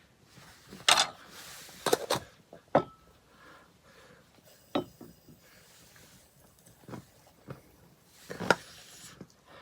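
A spoon clinking and scraping against a bowl while eating hot cereal soup: about seven sharp clinks at irregular intervals, one ringing briefly.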